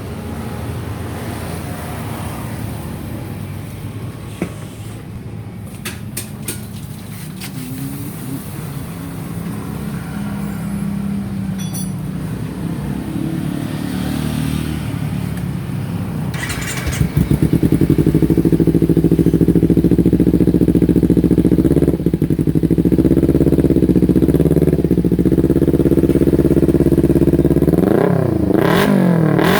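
Kawasaki Ninja 250 motorcycle running through an aftermarket exhaust. It idles steadily and gets louder about halfway through. It is then blipped in short revs and revved up rising near the end.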